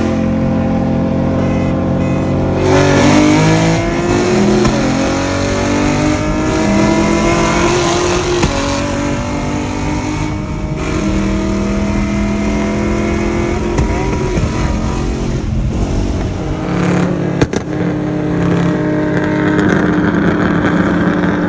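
A straight-piped Nissan 370Z V6 and a 2016 Mustang 5.0 V8 racing from a roll at full throttle, heard from inside one of the cars. The engine pitch climbs and drops back at each upshift. About 17 seconds in the sound cuts briefly, then an engine runs at a steady pitch.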